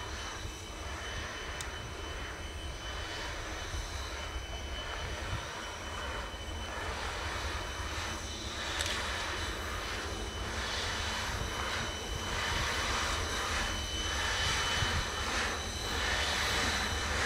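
A train approaching from a distance: a steady rumble with a swelling hiss, growing slowly louder.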